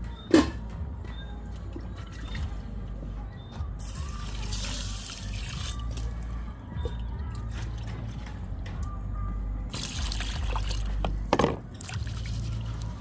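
Water pouring and trickling as jasmine rice is washed by hand in a pot, with a couple of sharp knocks, one just after the start and one near the end.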